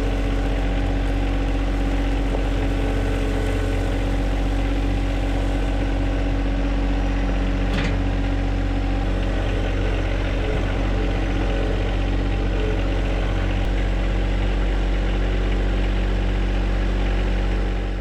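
John Deere 1025R subcompact tractor's three-cylinder diesel engine running steadily at an even speed, with one short knock about eight seconds in.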